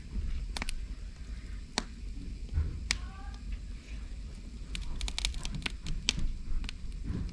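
Wood fire crackling in a fireplace: irregular sharp pops and snaps, clustered more thickly in the second half, over a low rumble.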